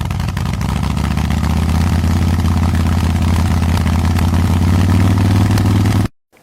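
Motorcycle engine running steadily, then cutting off suddenly.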